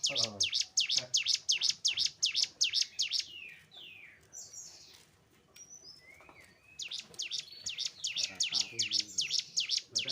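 Cigun songbird singing: a rapid run of sharp, high, downward-slurred chirps, about five a second. About three seconds in it breaks into a few slower sliding notes and a quieter pause, then the fast chirping resumes near the end.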